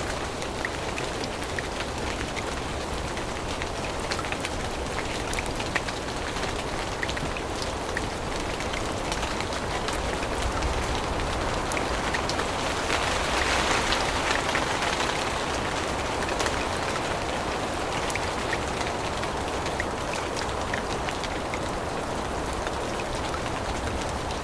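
Steady rain falling on forest leaves, with many separate drops ticking over the hiss. It swells louder for a few seconds around the middle, then settles back.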